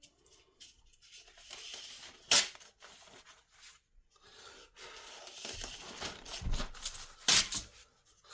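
Paper towel being torn and crinkled while raw chicken wings are patted dry with it. Papery rustling runs through, with two sharp louder rips, one a couple of seconds in and one near the end.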